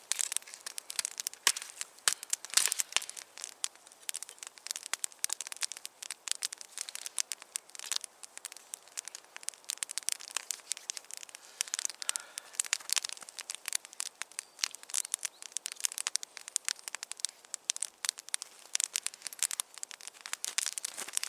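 Wood campfire crackling: a steady stream of irregular sharp snaps and pops.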